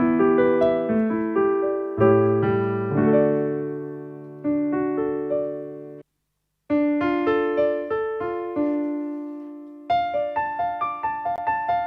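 Piano tone from a Casio AiX-engine digital keyboard, played in chords with a melody on top, each note decaying. Midway the sound cuts off abruptly for about half a second, then resumes with quicker, evenly repeated notes.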